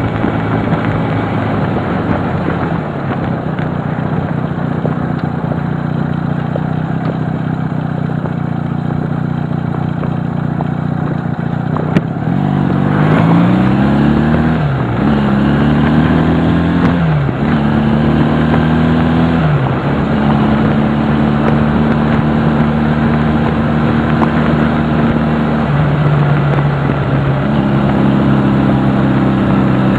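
Honda CD175 motorcycle's 174 cc parallel-twin four-stroke engine on the move. It runs steadily, then a sharp click comes about twelve seconds in. After that it accelerates through the gears, the pitch climbing and dropping sharply at three upshifts, before it settles into a steady cruise with one brief dip near the end.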